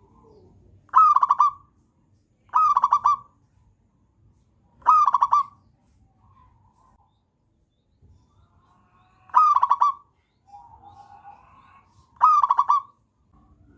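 Zebra dove (perkutut) singing: five short phrases of rapid pulsed cooing, each about half a second long, spaced two to four seconds apart, with fainter calls between them.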